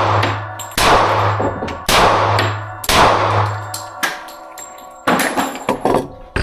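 Glock 30 .45 ACP pistol fired four times, about a second apart, each shot ringing out with a long echo. The loud shots are followed by a few quieter, sharper knocks.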